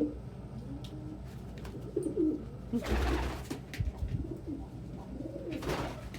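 Domestic pigeons cooing, low rising-and-falling calls repeated throughout, with two brief rustling rushes about three seconds in and near the end.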